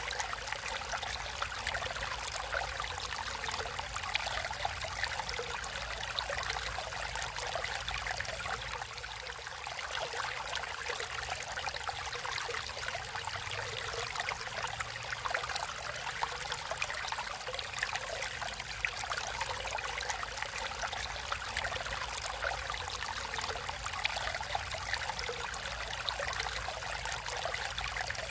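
Natural stream water running and trickling steadily, a continuous splashing burble of many small droplets.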